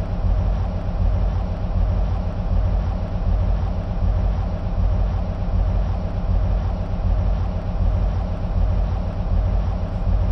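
EMD SW1500 switcher locomotives idling, their 12-cylinder two-stroke diesel engines giving a steady, unchanging low rumble.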